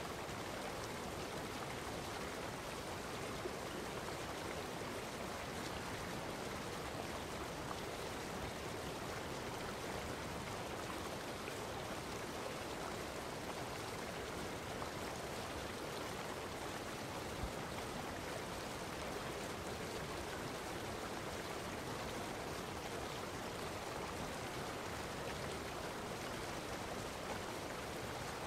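Steady running water, an even rush that does not change.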